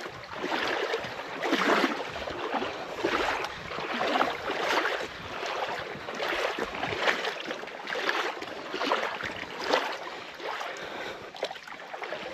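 Legs wading upstream through a river against the current, the water swishing and splashing with each stride in a rough rhythm of about one surge a second.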